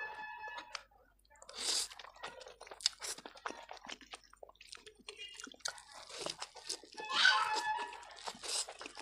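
Close-up chewing of vegetable Maggi instant noodles, with many short wet mouth clicks and two longer, louder noisy bursts, about two seconds in and about seven seconds in.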